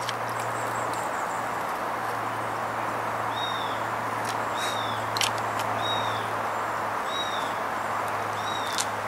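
A bird repeating a short, high, arching call about once a second from about three seconds in, over a steady low hum and a broad background hiss, with a few sharp clicks.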